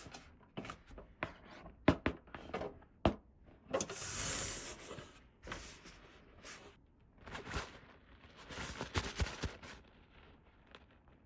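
Toy packaging and small plastic playset pieces being handled: scattered light clicks and taps, with two longer rustling scrapes, one about four seconds in and one near nine seconds.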